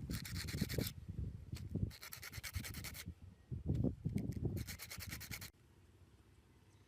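Abrasive rubbing on a hard surface, as in sanding during an amplifier restoration: three bursts of scratchy strokes with light knocks underneath, stopping about five and a half seconds in.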